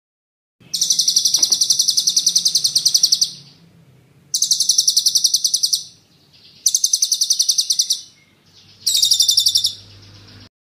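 A songbird singing four high-pitched rolling trills of very rapid repeated notes. The first trill lasts about two and a half seconds and the next three are shorter.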